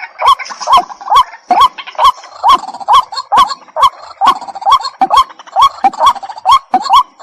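White-breasted waterhen calling: a long, even series of short, sharp rising notes, about two or three a second, repeated without a break.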